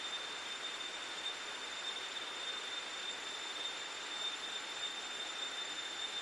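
Steady insect chorus: an even, high-pitched drone with a continuous thin whine held on one pitch, no breaks or changes.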